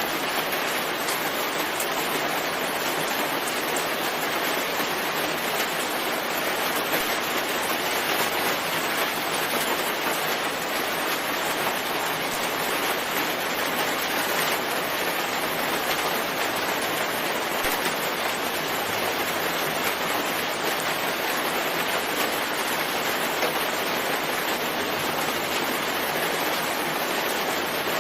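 Steady rain falling, an even hiss that holds at the same level throughout with no breaks.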